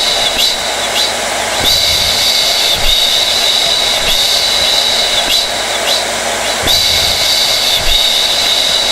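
Hair dryer running steadily: an even rush of air with a high-pitched motor whine that wavers briefly about once a second.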